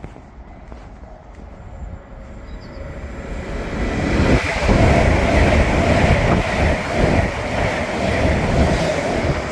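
A train passing, its rumble and wheel-on-rail noise building over the first few seconds and loud from about four seconds in, with a run of short knocks as the wheels cross the rail.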